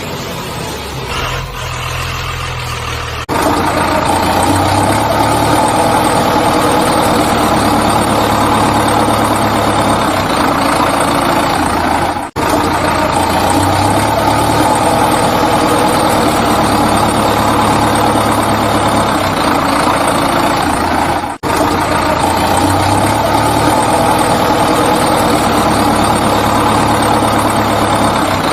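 Engine running steadily, from a recording looped about every nine seconds, with a brief dropout at each loop point.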